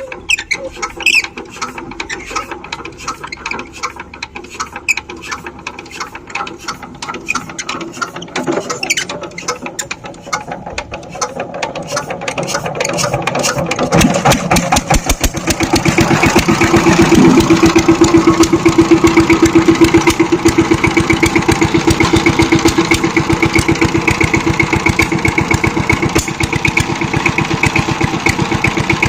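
Power tiller's single-cylinder diesel engine being turned over, with irregular clicking and rattling, then catching about halfway through and building into a steady, loud running beat.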